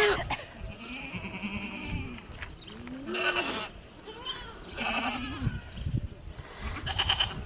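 Goats bleating, about five separate calls a second or two apart.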